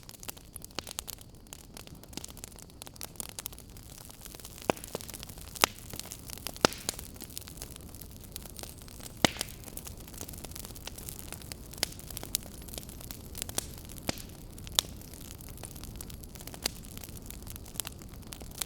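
Wood fire in a fireplace crackling: a steady hiss with frequent small irregular pops, and about nine louder, sharper snaps spread through.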